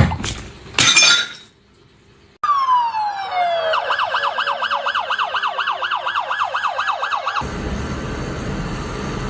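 A couple of sharp knocks, then a falling whistle that turns into a fast siren-like wail, rising and falling about four times a second, which cuts off suddenly; after it comes a steady hiss.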